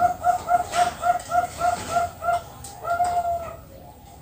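Bangkok-type zebra dove (perkutut) singing. A rapid run of short, clipped coos, about four a second, ends about three seconds in on one longer drawn-out note. Fainter coos follow afterwards.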